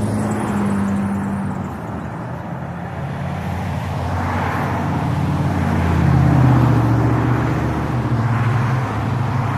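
Small mini bike engine running, its pitch rising and easing off around the middle, with a rush of wind and road noise.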